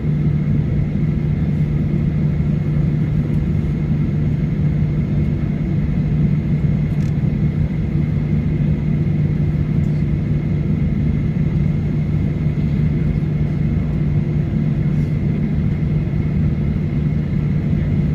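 Steady cabin drone of a Boeing 737-900ER on the ground before takeoff, engines and air conditioning running. A constant low hum sits under it, with a fainter steady higher tone.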